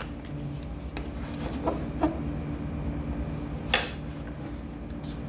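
Tarot cards being handled, with a few brief soft swishes and taps over a steady low hum.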